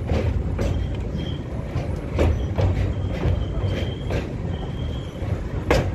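Passenger express train running, heard from inside the coach: a steady low rumble with irregular clacks of the wheels over the rail joints, and a thin high whine that comes and goes.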